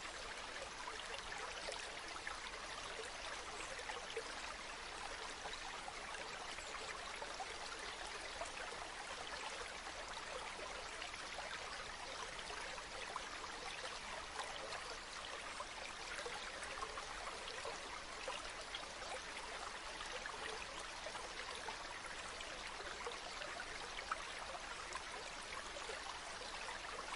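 Water from a small spring running and trickling steadily, an even splashing hiss made of many tiny drips and splashes.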